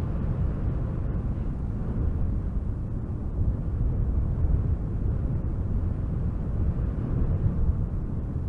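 Strong wind rushing through spruce trees: a steady, deep rumble of moving air with small surges in the gusts.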